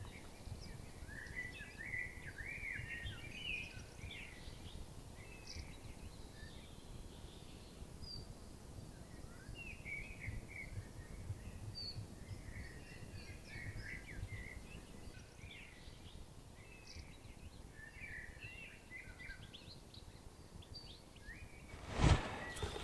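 Small birds chirping here and there in woodland over a steady low background noise, then a sudden loud thump near the end.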